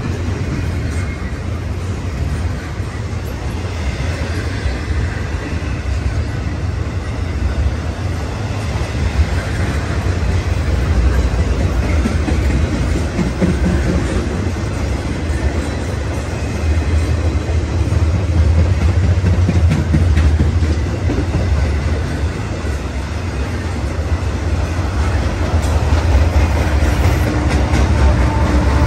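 A BNSF intermodal freight train's cars passing close by, their steel wheels rumbling and clattering steadily on the rails. Near the end the rear General Electric distributed-power locomotive comes alongside, adding the steady hum of its diesel engine.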